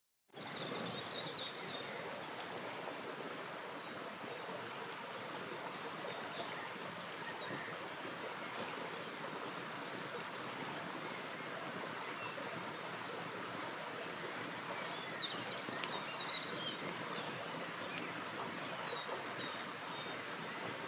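River water flowing steadily, with a few sharp crackles from a campfire and faint bird chirps now and then.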